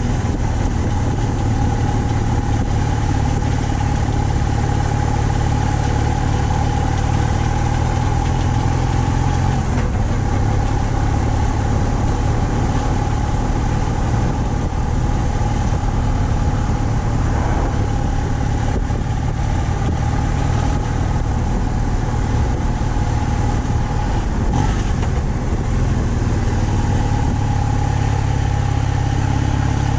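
BMW R 1200 C's boxer twin engine running steadily while cruising, heard with a constant rushing noise of the ride.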